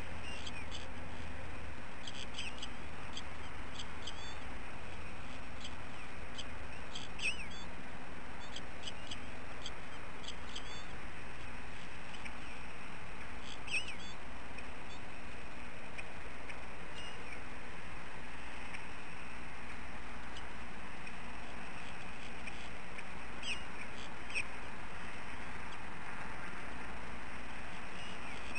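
Short, high bird chirps at irregular intervals, several in quick runs early on and a few single ones later, over a steady outdoor hiss.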